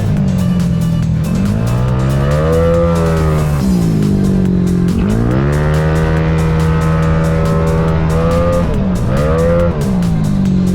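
Tuned single-cylinder four-stroke scooter engine, a Yamaha Gryphus bored out to 237cc, running under load. The revs climb and drop several times and hold steady between the changes. Background music plays over it.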